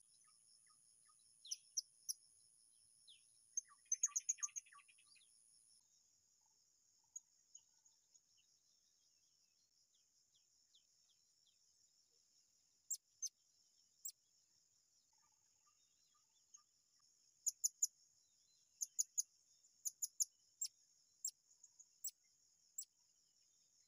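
Small birds giving short, sharp, high-pitched chirps, singly and in quick runs of three or four, over a faint steady insect drone. A thin high whistling tone stops about six seconds in.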